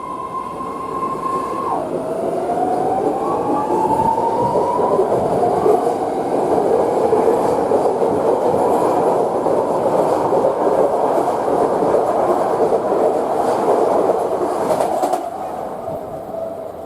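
Legacy-fleet BART train departing: a steady high whine drops in pitch about two seconds in, then climbs steadily as the train gathers speed. Loud wheel-on-rail rumble and clatter builds as the cars pass and falls away sharply near the end.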